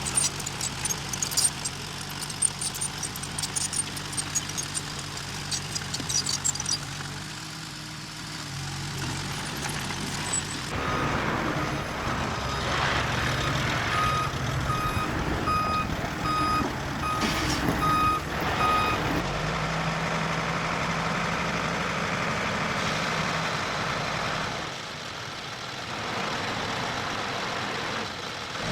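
Diesel engines of heavy earth-moving machinery running steadily, with sharp metallic clicking over the first several seconds. Partway through the engine note rises, and a reversing alarm beeps at an even pace, about one and a half beeps a second, for about five seconds before stopping.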